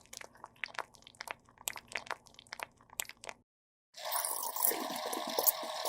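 Scattered light clicks and taps over a faint hum. After a brief silence, a dense, steady rush of liquid-like sound starts near the end, like running or pouring water.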